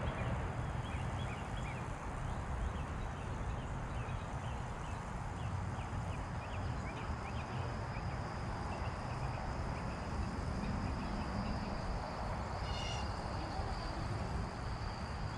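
Creekside outdoor ambience: a steady low rumble with many short bird chirps scattered throughout, and one louder bird call about thirteen seconds in.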